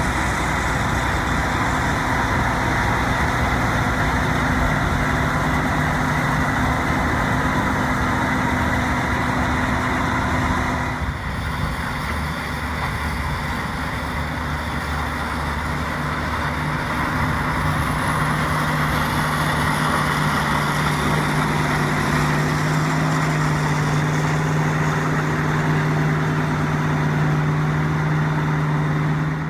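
Axial-Flow combine harvesting soybeans: the six-cylinder diesel engine and threshing machinery running steadily under load, a constant drone. The tone shifts slightly about eleven seconds in.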